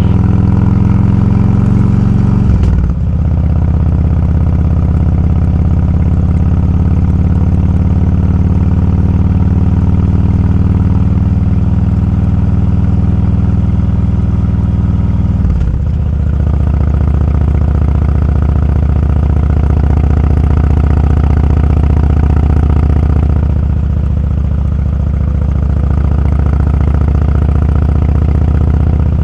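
Motorcycle engine running steadily under way, its note dropping sharply twice, about three seconds in and about fifteen seconds in, as gears change.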